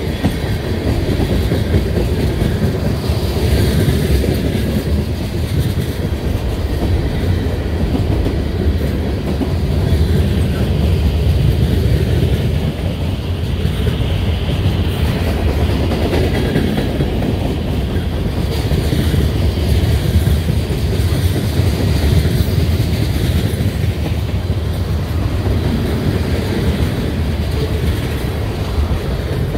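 Long freight train's cars rolling past at track speed, a steady loud rumble with wheels clattering over the rails.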